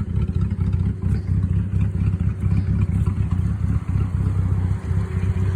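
S197 Ford Mustang's engine idling with a choppy, uneven cam idle, straight through shorty headers and true dual exhaust with no catalytic converters or mufflers.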